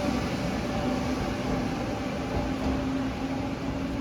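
Steady rumbling hiss of a train running, with a faint steady hum underneath.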